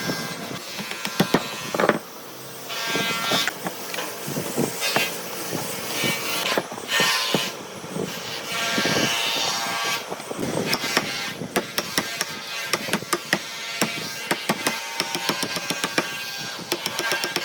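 Hand woodworking in a workshop: irregular wooden knocks and taps, with stretches of scraping or rasping noise between them.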